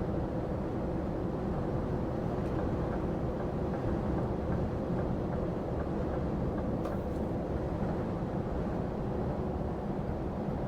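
Steady engine and road noise heard inside the cab of a moving articulated lorry.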